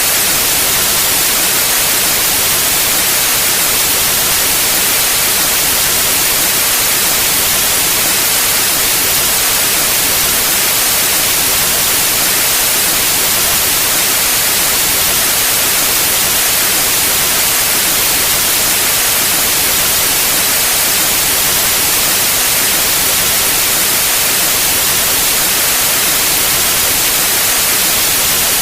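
Steady, loud synthetic white noise: an even, unchanging hiss with its energy weighted toward the high frequencies.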